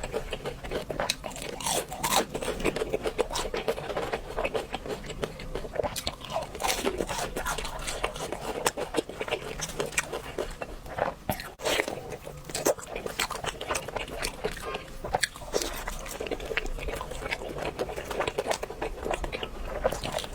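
Close-miked crunching and chewing of crispy fried food, with many sharp, irregular crunches throughout.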